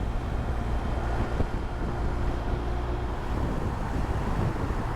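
BMW R1250 GSA's boxer-twin engine running steadily at cruising speed, under a constant rush of wind noise on the microphone.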